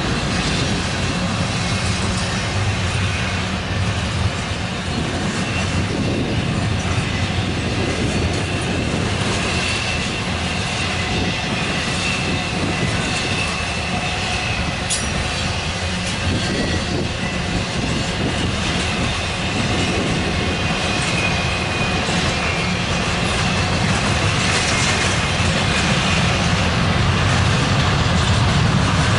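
Norfolk Southern freight train rolling steadily past, its wheels clattering over the rails, with a faint high wheel squeal.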